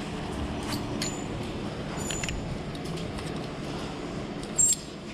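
Clothes hangers clicking and clinking against a metal clothing rack as shirts are pushed along and flipped through. A few sharp clinks stand out, the loudest about four and a half seconds in, over steady background noise.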